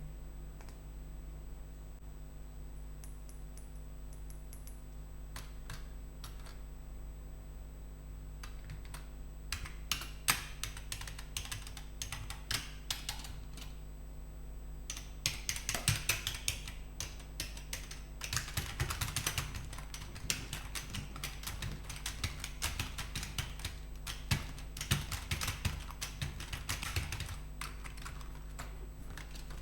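Computer keyboard keys clicking: a few scattered taps at first, then quick, dense runs of clicks like fast typing, over a steady low hum.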